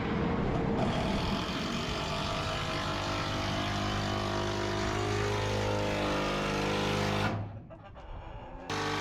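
An engine running steadily with a low, even hum, then dropping away sharply about seven seconds in.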